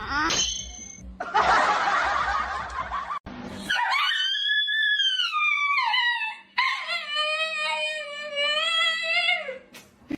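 A pet animal vocalising: a short rising cry and a harsh noisy burst, then two long, high, pitched cries, the first arching up and falling away, the second held and sliding down at the end.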